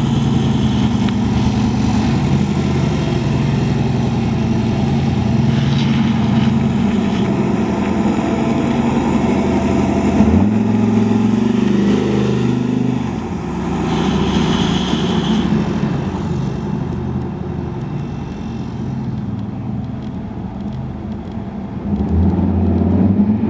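Turbocharged 6.0-litre LQ4 V8 of a 1963 Chevrolet Nova SS restomod running as the car drives by. The revs rise about ten seconds in as it passes close. The engine fades as the car pulls away, then grows louder again near the end as it comes back.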